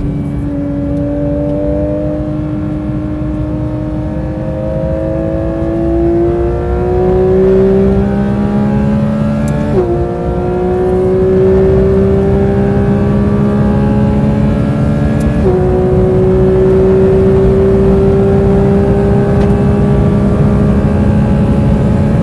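Porsche 992 GT3 RS's naturally aspirated 4.0-litre flat-six under full-throttle acceleration, its pitch climbing steadily through each gear. Two quick upshifts, about ten seconds in and about fifteen seconds in, each drop the pitch sharply before it climbs again.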